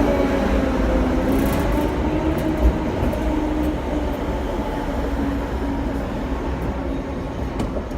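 Hong Kong double-decker tram running along the street track, heard on board: a steady rumble of wheels on rails with a low hum, and a single knock about two and a half seconds in.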